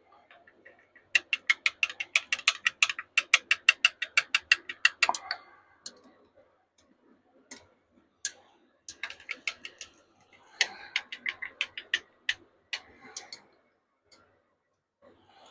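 Quick, regular clicking of a hard utensil or container tapping against a cup while plastisol is mixed with colour and flake, about five clicks a second for several seconds, then shorter runs and single clicks.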